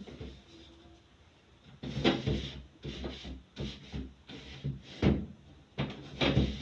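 Fridge parts being handled during cleaning: a quiet start, then a run of irregular knocks and scrapes from about two seconds in.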